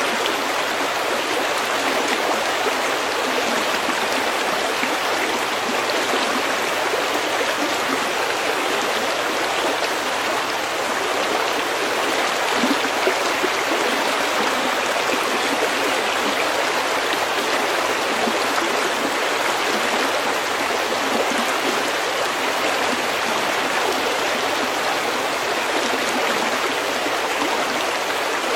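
A brook running steadily over stones, a dense even rush and babble of water.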